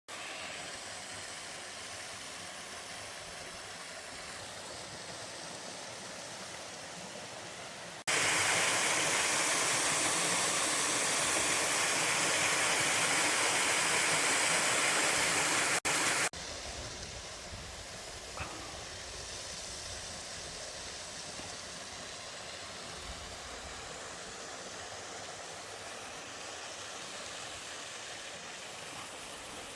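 Waterfall and mountain stream water rushing steadily. For about eight seconds in the middle the rush is much louder and cuts in and out abruptly.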